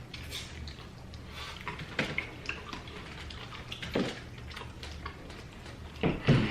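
Close-miked eating of chicken wings: chewing and mouth smacking with scattered small wet clicks, and a few louder bites or handling noises about 2 s, 4 s and 6 s in.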